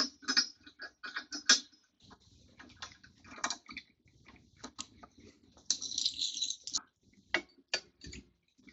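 Garage door opener rail sections being handled and fitted together: scattered light clicks and knocks, with a short rustle about six seconds in.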